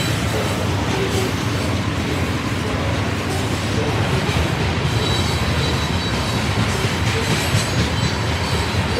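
Loaded freight cars of a rock train rolling past close by: a steady, loud rumble and rattle of steel wheels on rail. A faint high squeal joins about five seconds in.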